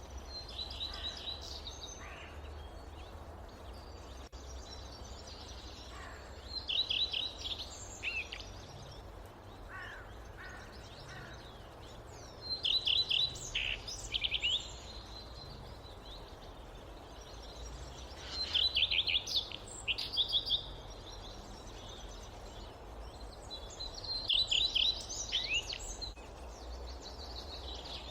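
A songbird singing the same short phrase of rapid high notes about every six seconds, five times, over a steady low rumble of wind.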